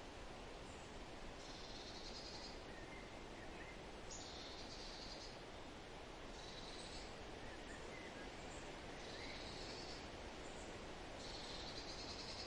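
Forest ambience: a steady background hiss with a high, buzzy trilling call repeating about every two to three seconds, and a few faint short bird chirps.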